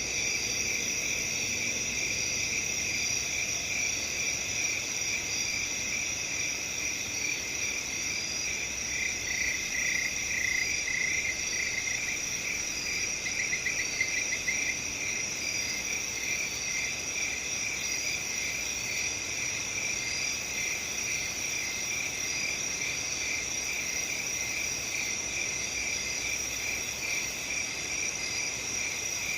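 A chorus of crickets chirping steadily on several pitches, with one nearer cricket chirping louder from about a third of the way in until about halfway.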